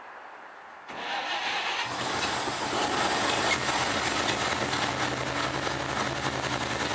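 Chevy pickup engine cranked over by the starter about a second in, catching and running steadily through a newly welded exhaust. It runs on petrol poured down the carburettor, with no fuel coming through from the tank.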